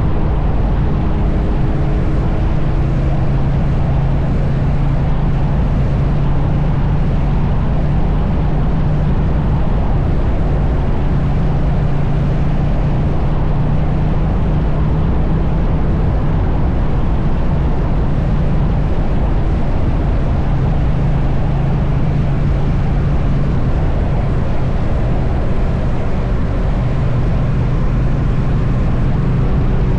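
Triumph Bonneville T100 parallel-twin engine running at a steady cruising speed, its note holding almost constant, under heavy wind rush on the microphone.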